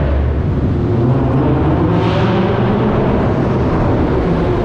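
Car engine running close by, a steady low rumble, with a brief rise in hiss about two seconds in.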